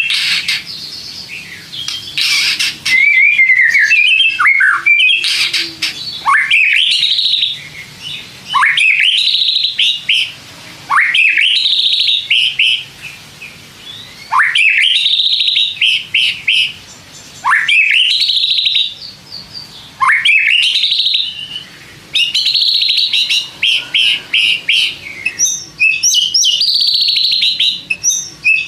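White-rumped shama singing loudly. Its phrases repeat about every three seconds, each a fast upward sweep that breaks into a quick run of high notes. Near the end the notes come in a denser, rapid chatter.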